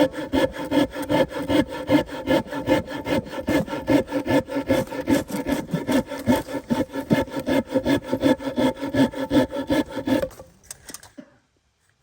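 Hand saw cutting through wood in quick, even back-and-forth strokes, with a ringing tone under the rasp. The sawing stops about ten seconds in, followed by a few light knocks.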